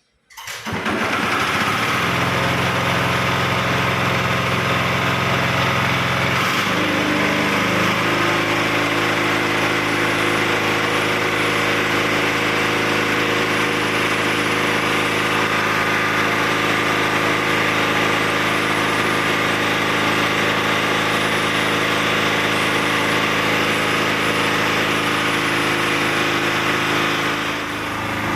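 Car-wash water pump machine starting up and running steadily, its motor humming with a pitch that steps up slightly about seven seconds in.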